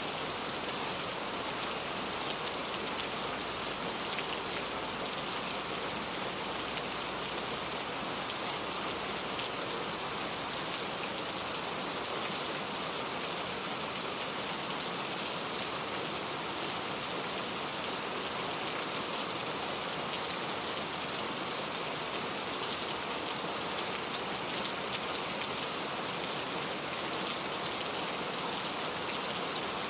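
Steady rain falling and pattering on a surface, with many small drop ticks and no change in intensity.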